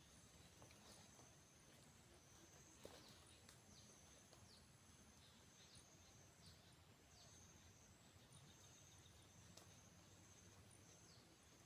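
Faint outdoor ambience: a steady high insect trill, with short falling chirps about once a second.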